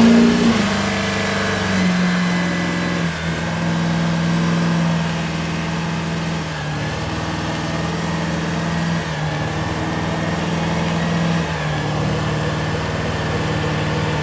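A truck engine running, its pitch holding level and then shifting up and down every second or two.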